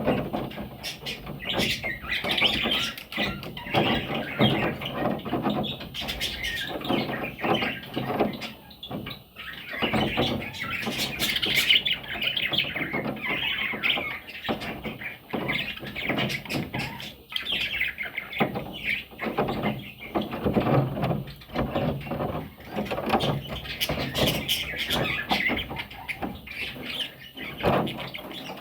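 Budgerigars chirping and squawking busily, with many short clicks and scratches mixed in.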